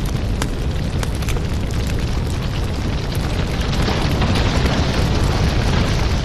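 Wood fire in a fireplace burning, with a steady low roar of flames and scattered sharp crackles and pops.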